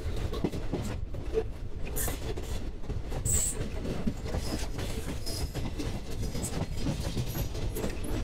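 Passenger train running, heard from inside the open doorway of a coach: a steady low rumble of wheels on the rails with some clatter, and a few short high wheel squeals.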